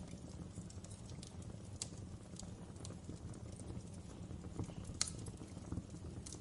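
Wood fire in a fireplace crackling, with irregular sharp pops over a steady low rumble of the flames; the loudest pop comes about five seconds in.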